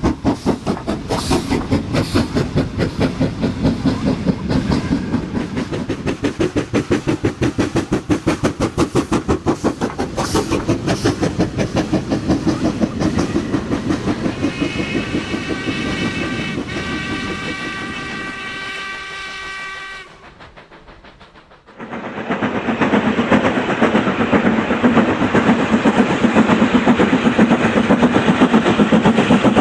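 Model train wheels clicking rapidly and evenly over the rail joints of a model railway layout. About halfway through, a steady pitched horn or whistle tone sounds for several seconds. It stops abruptly, and after a brief dip a louder, denser rail clatter takes over.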